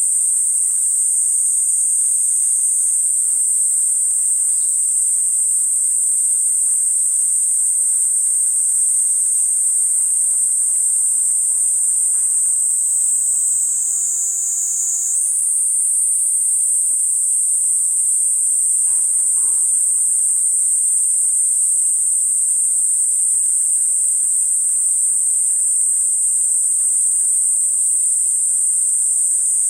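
Kuroiwa's cicada (Platypleura kuroiwae) singing one continuous, high-pitched buzzing drone. About halfway through the song briefly drops lower and softer, then returns to its steady pitch.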